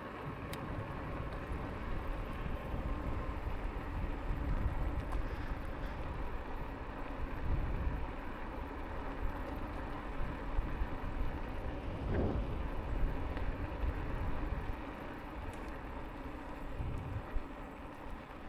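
Wind buffeting the microphone and rolling noise from a Lankeleisi X2000 e-bike ridden at speed, a fluctuating low rumble with no let-up.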